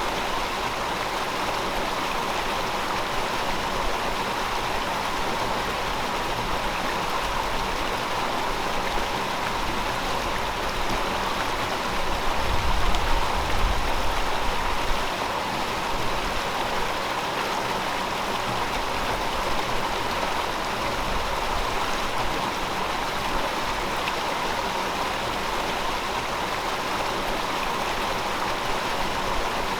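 A river flowing steadily, a continuous rushing of water, with a low rumble swelling for a couple of seconds about twelve seconds in.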